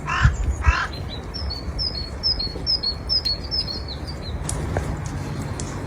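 Birds calling: two harsh calls in the first second, then a small bird's run of quick, high two-note chirps lasting about three seconds, over a steady low rumble.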